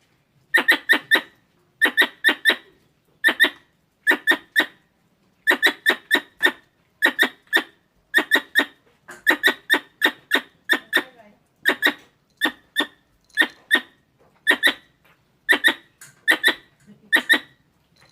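Squirrel calls: rapid groups of three or four sharp, high chirps, repeating about once a second at a very even rhythm.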